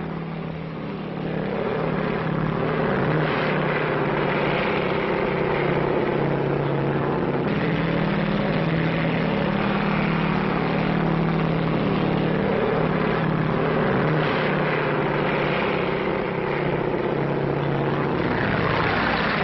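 Propeller airplane's piston engine running steadily in flight, a continuous drone that swells over the first couple of seconds.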